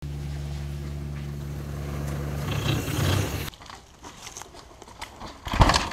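A steady motor hum cuts off abruptly about three and a half seconds in. It is followed by quieter clicking and rattling of a mountain bike on a rocky trail, with a loud crunch of tyres over rocks near the end.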